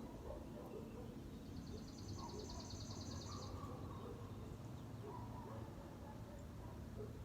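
A small songbird gives one high, rapid trill lasting about two seconds, over a steady low background rumble.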